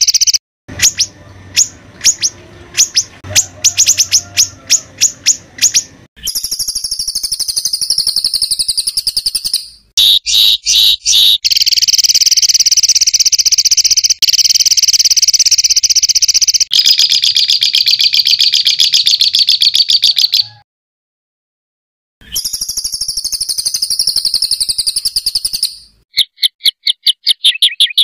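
Recorded songbird 'tembakan kasar' calls: long, high, continuous buzzing trills alternate with runs of sharp, rapidly repeated notes. The segments are spliced with abrupt cuts, and there is a brief silence about 20 seconds in.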